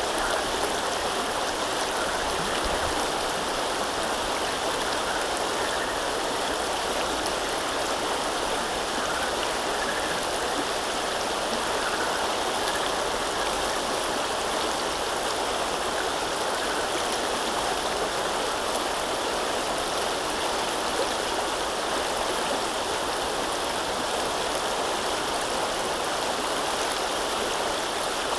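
River water running and babbling steadily, a continuous rush without change or separate events.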